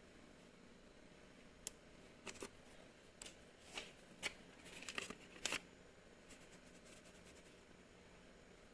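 Faint handling noises: scattered sharp clicks, with a short burst of rustling about five seconds in.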